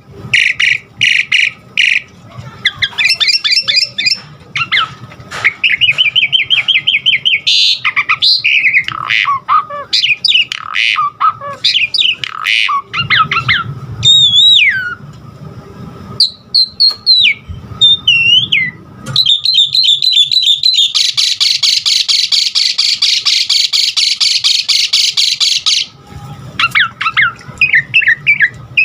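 Asian pied starling (jalak suren) singing a varied song of short whistles, squawks and chattering phrases, with a long harsh rattling buzz from about two-thirds of the way in.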